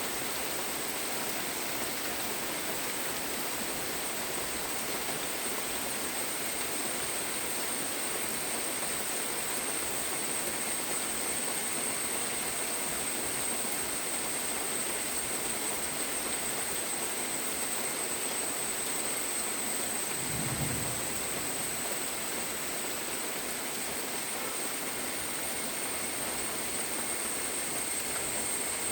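Steady rainfall, an even hiss with a thin high steady tone running over it. A brief low thump comes about two-thirds of the way through.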